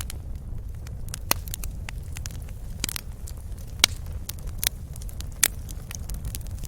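Wood fire crackling and popping in a fireplace: irregular sharp pops over a steady low rumble of the flames.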